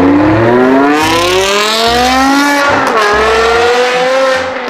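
BMW E60 M5's V10 engine accelerating hard, its pitch climbing steadily. Just before three seconds in the pitch drops at an upshift, then it climbs again.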